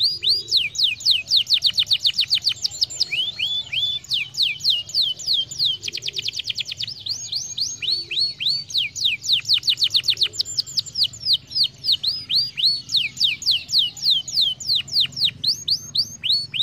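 Domestic canary singing: a long, fast run of downward-sweeping whistled notes, broken about six seconds in by a rapid trill.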